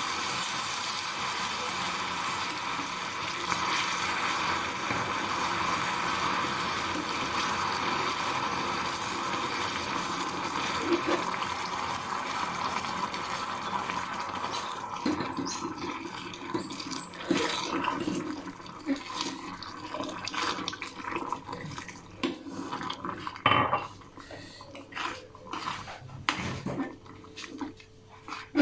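Hot water hitting melted caramelized sugar in a pan, hissing and bubbling steadily, then dying down about halfway through into scattered clinks and knocks against the pan.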